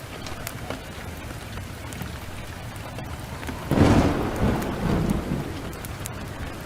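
Steady heavy rain, with a thunderclap breaking suddenly a little after halfway and rumbling away over about two seconds.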